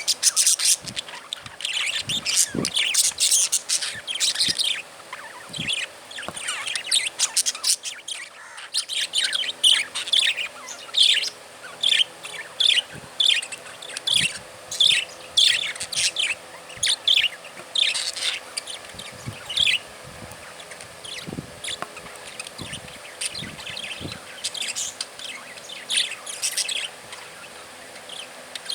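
Budgerigars chirping, in a rapid run of calls at first and then a steady series of short chirps about two a second, with a few soft knocks in between.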